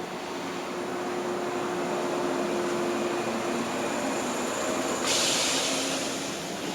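Electric train running slowly past, a steady rumble with a few humming tones; a sudden hiss starts about five seconds in and fades away.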